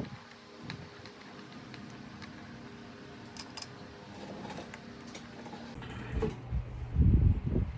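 Light clicks and clinks of small metal parts and tools being handled during repair work, with a few heavier low thumps near the end.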